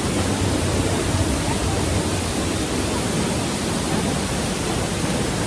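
Storseter Falls waterfall heard up close from behind the falling water: a steady, dense rush of water.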